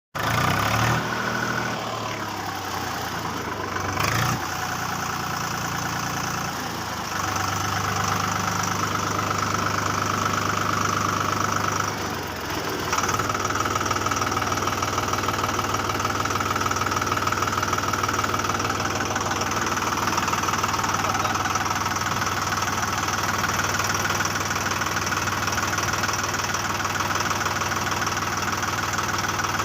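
A motor running steadily, with a click about four seconds in and its sound shifting about seven and thirteen seconds in.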